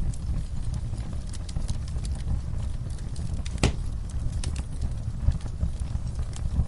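Wood fire crackling in a fireplace: a steady low rumble of burning with scattered sharp crackles and pops, one louder pop about halfway through.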